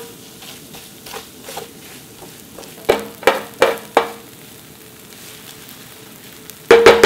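Rice stir-frying in a large shallow skillet, with quiet sizzling throughout as a wooden spoon stirs and presses it. About four sharp knocks of the spoon against the pan come three to four seconds in and a louder one near the end, each followed by a brief ring.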